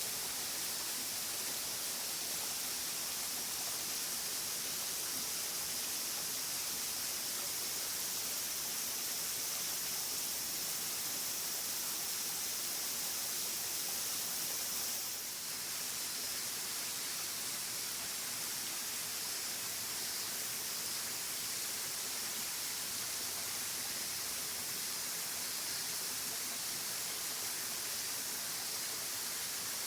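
Waterfall: a steady rush of falling water, a dense hiss weighted toward the high end, dipping briefly about halfway through.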